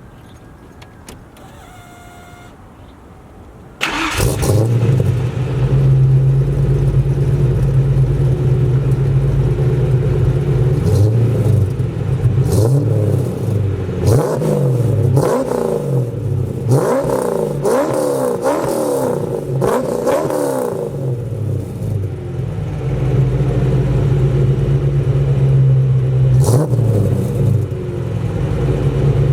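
Fox-body Ford Mustang's pushrod 302 V8 starting up about four seconds in and running through a new 2.5-inch Magnaflow Magnapack exhaust. It idles, is revved several times in quick succession through the middle, then settles back to a steady idle.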